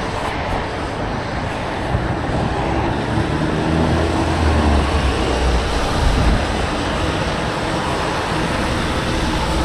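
Wind rushing over an uncovered microphone on a moving bicycle, over road traffic noise. A vehicle engine's low hum swells close by about four to six seconds in.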